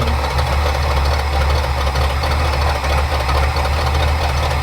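1977 Ford Ranchero's 351 Windsor V8 idling steadily in gear, its idle mixture running lean while the carburetor's mixture screw is turned to richen it.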